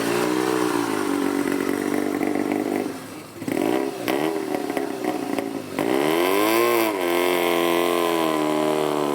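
Motorcycle engine idling and being revved: a few quick blips about halfway through, then one bigger rev that rises and drops back to a steady idle.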